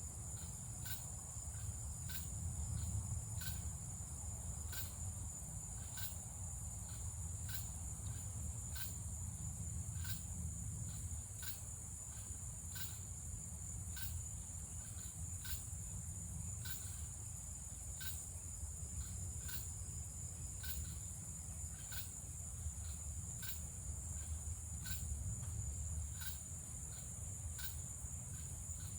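Night insect chorus of crickets and cicadas: a steady high trill, with a regular chirp about every three-quarters of a second, over a low rumble.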